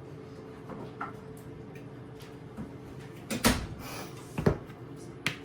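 Kitchen handling sounds: a few sharp knocks and clatters of things being picked up and set down on a counter, loudest about three and a half and four and a half seconds in, over a steady low hum.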